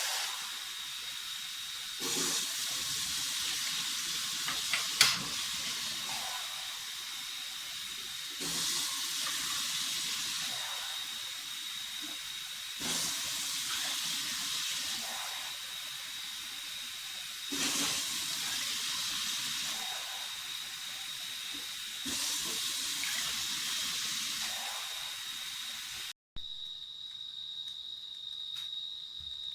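Steady hiss of a pot of porridge steaming as it cooks, with an insect's unbroken high trill behind it and one sharp knock about five seconds in.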